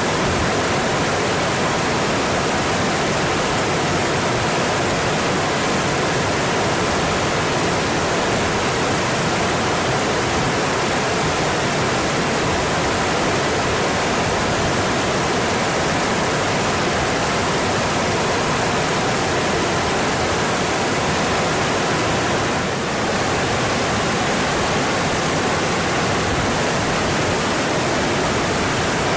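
Mountain stream running over its bed, a steady rush of water.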